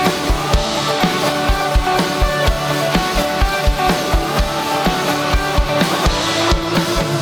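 Pop band music without vocals: an instrumental passage carried by a steady drum-kit beat with a regular kick drum under sustained pitched instruments.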